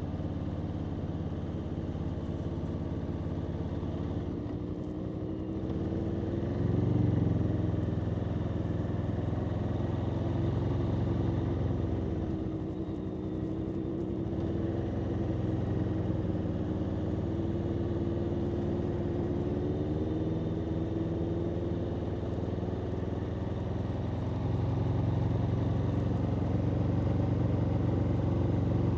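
Aprilia Tuono V4 motorcycle's V4 engine running under way, its note rising and falling as the rider works the throttle. It pulls louder about seven seconds in, eases off around twelve to fourteen seconds, and gets louder again near the end.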